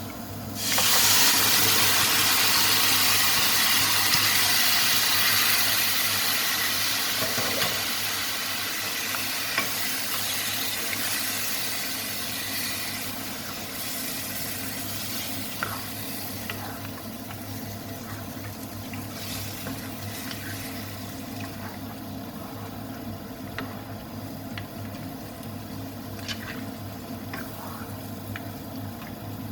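Wet food hitting a hot pan of oil and spices: a sudden loud sizzle starts about a second in and fades gradually over the next dozen seconds into a quieter, steady frying sizzle, with occasional clicks of a stirring spoon.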